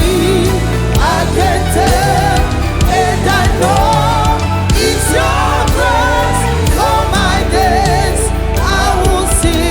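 Live worship music from a church praise band: sustained low keyboard or bass notes under voices singing wavering, drawn-out notes.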